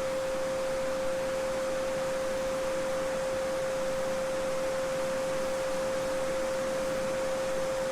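A steady 528 Hz sine tone held unchanging, over the continuous babbling of a small stream.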